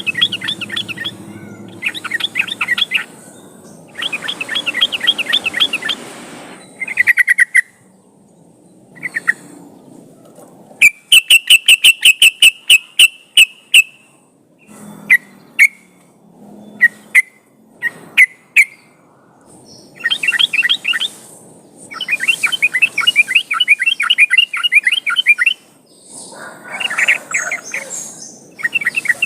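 Yellow-vented bulbuls (trucukan) singing in bursts of rapid bubbling, chattering notes, each burst one to three seconds long with short pauses between. About eleven seconds in, a run of sharp, evenly spaced notes lasts about three seconds.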